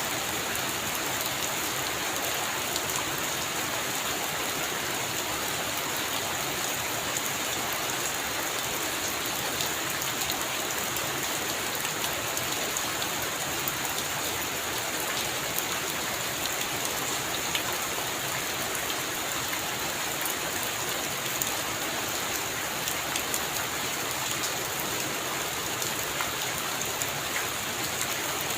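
Steady heavy rain pattering on a roof, a dense even hiss with many fine drop ticks.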